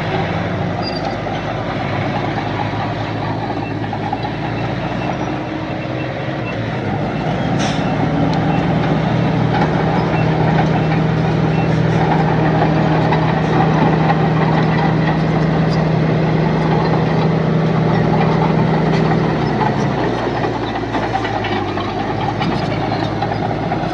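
A heavy machine's diesel engine running steadily. Its drone swells about a third of the way in as the engine works harder, holds, and eases back a few seconds before the end.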